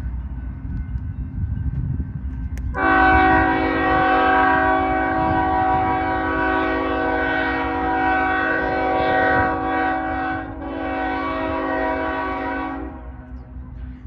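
Train locomotive's air horn sounding a chord: a long blast starting a few seconds in, then after a brief break a second, shorter blast, over the low rumble of the passing train.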